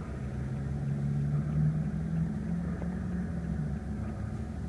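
A small electric motor in a car door whirring, its pitch rising slightly, then stopping after nearly four seconds, over a steady low hum.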